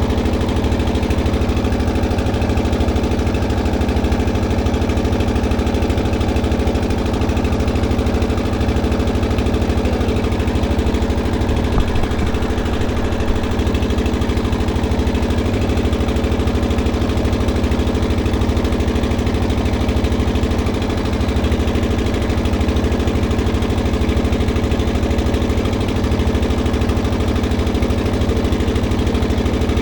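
An engine running steadily at an even speed, with a dense low rumble, and a couple of small knocks about twelve seconds in.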